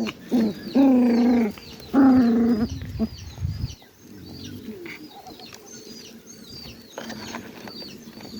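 Birds chirping, a steady run of short high chirps several times a second. Two louder drawn-out pitched calls come in the first three seconds, over a low rumble that stops about four seconds in.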